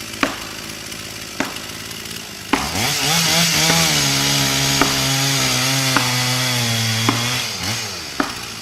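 A chainsaw idles, then revs up about two and a half seconds in and runs at full throttle for about five seconds before dropping back to idle. Sharp knocks ring out about every second or so, a maul striking felling wedges into the back cut.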